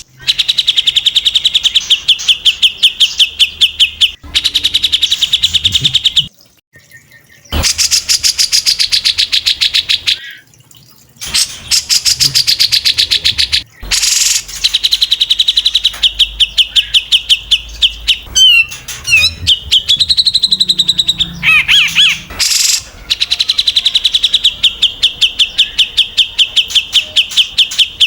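Songbird singing fast 'tembakan' trills: long runs of rapid, evenly repeated high notes broken by short pauses, with a few twisting, sliding notes around the middle.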